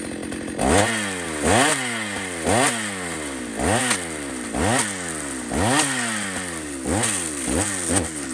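Chainsaw engine blipped from idle again and again, about once a second: each rev climbs sharply in pitch and drops straight back to idle.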